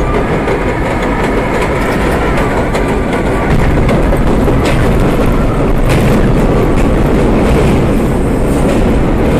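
R32 subway car running at speed on the J line: a steady loud rumble of steel wheels on rail, with a few sharp clicks over rail joints near the middle. A faint high whine fades out in the first couple of seconds.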